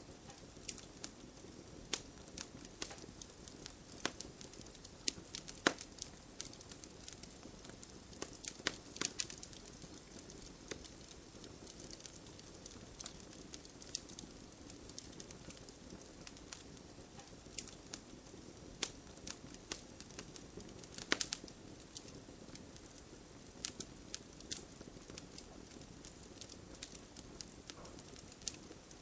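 Wood fire crackling, with irregular sharp pops and snaps, over a steady patter of rain.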